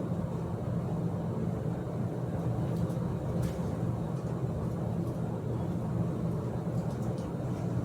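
A steady low rumble with a few faint, light clicks.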